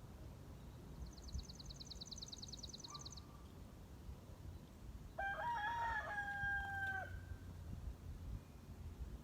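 A rooster crows once, a long drawn-out call of about two seconds starting about five seconds in, the loudest sound here. Earlier a small songbird gives a fast, high trill of about nine notes a second for about two seconds.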